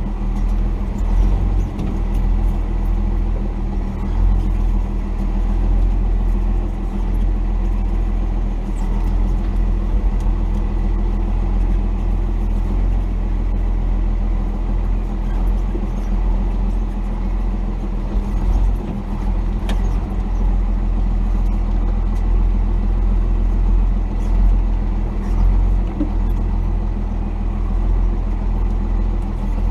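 Cummins diesel engine of a 1990 Dodge D250 pickup running steadily, a deep even rumble.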